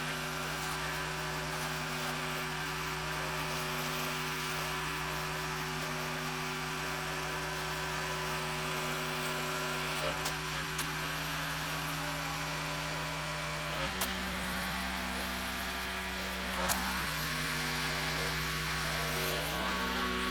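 Pressure washer engine running steadily, its pitch stepping up for a couple of seconds about 14 seconds in and again near the end as its speed changes.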